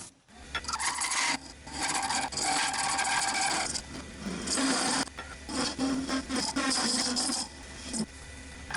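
A turning tool cutting a workpiece spinning on a wood lathe, in several scraping passes of a second or two each, over the lathe motor's steady low hum.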